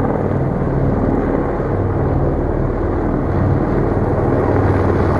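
Helicopter hovering overhead: a steady, rapid beat of the main rotor over the drone of its turbine.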